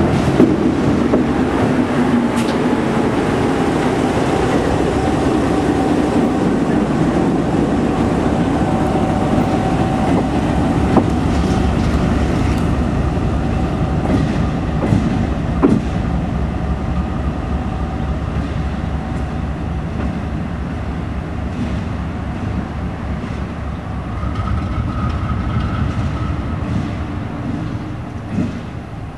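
Train led by a GE C36-7i diesel locomotive running along the track, with a steady low engine and rail noise and a few sharp clicks, gradually getting quieter.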